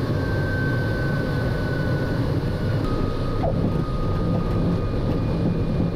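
MiG-17 jet engine running with a steady rumble and a thin whine that steps lower in pitch about three seconds in.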